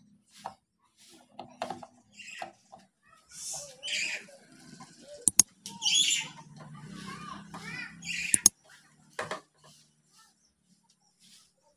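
Birds chirping and squawking in short calls, loudest in the middle stretch. Two sharp clicks from a screwdriver working the equaliser's case screws come midway and again about three seconds later.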